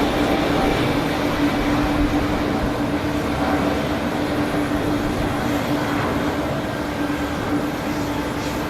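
Steady engine drone with a constant low hum, slowly growing fainter.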